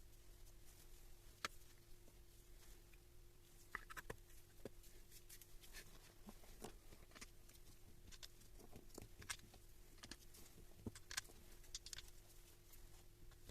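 Near silence, with scattered faint clicks and light taps over a faint steady hum.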